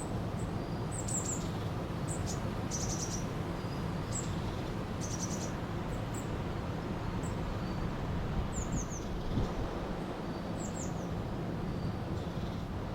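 River water flowing with a steady rush, and songbirds calling over it: short high chirps, a couple of quick trills, and groups of three fast falling notes repeated every couple of seconds.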